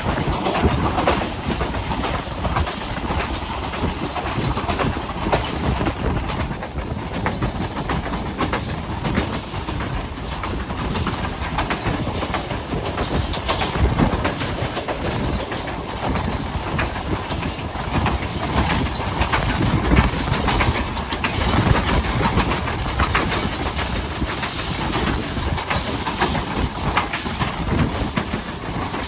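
Hazara Express passenger train running on the track: a steady rumble with the wheels clattering over rail joints, the clicks coming thick and uneven throughout.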